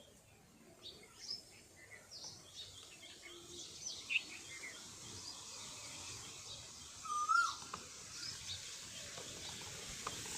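Several birds chirping and calling in short high notes, with one louder gliding call about seven seconds in.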